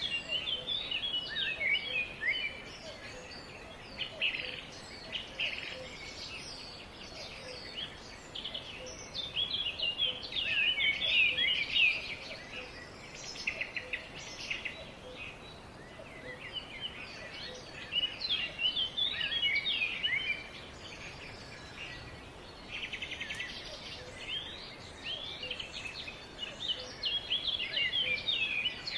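Several small songbirds chirping and twittering in bouts of rapid, quick-sweeping notes, with short lulls between bouts, over a steady faint background hiss.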